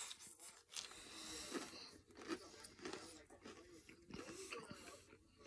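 Close-up chewing of a mouthful of cheese-dusted hard taco shell with meat and cheese: soft, uneven crunches and wet mouth sounds.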